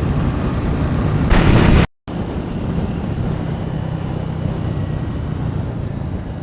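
Motorcycle on the move: a steady engine note under heavy wind noise on the microphone. The noise swells just before the audio drops out for a moment about two seconds in, then resumes.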